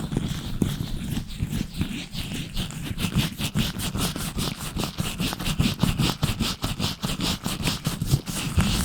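Latex-gloved fingers rubbing and scratching right on the microphone, close and loud. Irregular rubbing at first gives way about three seconds in to fast, even scratching strokes, about six a second.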